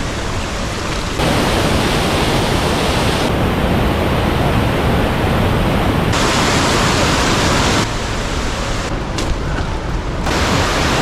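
Steady rushing water, like a stream or waterfall, filling the sound. Its loudness and character jump abruptly several times.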